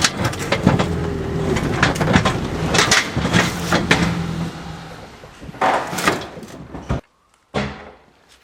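Mini truck engine running with clunks and rattles, dying away after about five seconds. A loud knock comes about six seconds in, then the sound cuts off suddenly, followed by a single thud.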